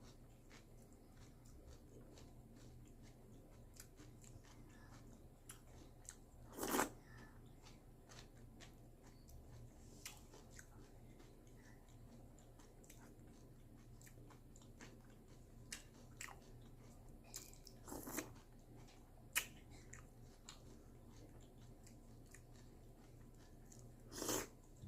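A person eating crunchy cereal close to the microphone: faint chewing and crunching throughout, with three louder short crunches or clicks, about a quarter of the way in, past the middle, and near the end.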